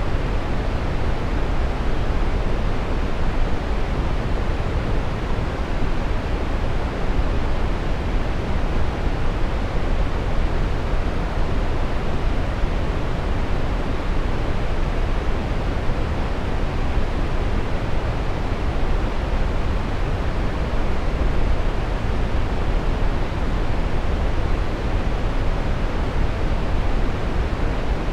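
Steady brown noise: an even, deep rushing hiss, strongest in the lows and dull in the highs, unchanging throughout.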